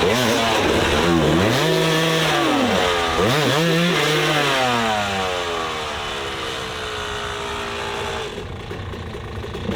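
Off-road motorcycle engine revving hard, its pitch rising and falling several times in quick blips, then winding down in one long falling sweep and fading away.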